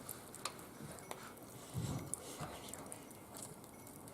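Wood fire crackling faintly, with a few scattered sharp pops and a short low muffled sound about two seconds in.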